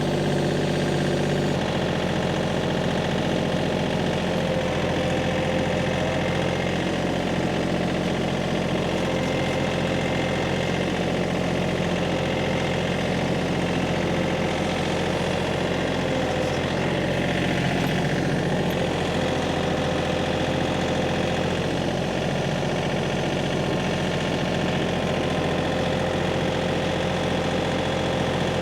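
Tractor engine running steadily at low speed. Its pitch drops a step about a second and a half in, then holds even.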